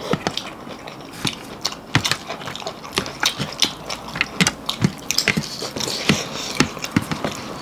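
People chewing food close to the microphone, a quick irregular run of short wet clicks and mouth sounds.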